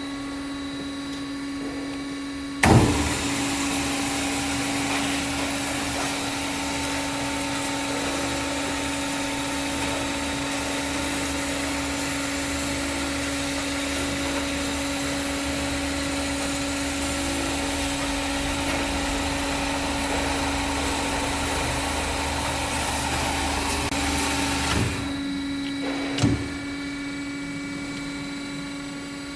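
Berg & Schmid GBS 305 HA-I metal-cutting band saw with a steady machine hum throughout. About three seconds in, with a sharp knock, the saw starts and runs with an even, loud whir for some twenty seconds, then shuts off. A single click follows.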